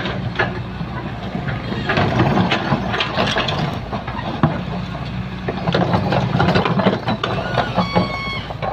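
Excavator's diesel engine running steadily, with repeated clanks and knocks of the machine at work.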